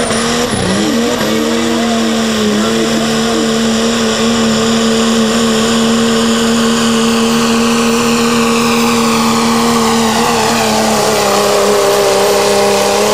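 Dodge pickup's Cummins diesel engine held at full throttle while it pulls the sled, staying loud at a steady pitch after a brief dip near the start. Over it, a high whine slowly falls in pitch.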